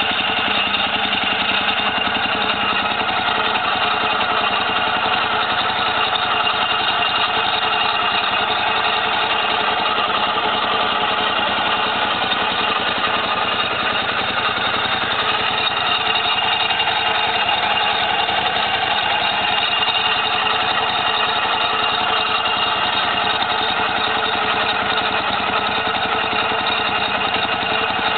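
Ducati Multistrada 1100's air-cooled L-twin engine idling steadily, with no revving.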